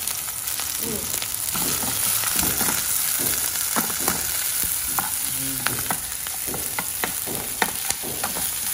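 Sliced chillies and garlic sizzling in hot oil in a nonstick frying pan, stirred with a wooden spatula that taps and scrapes against the pan, over a steady hiss with frequent small crackles. The aromatics are being fried until fragrant.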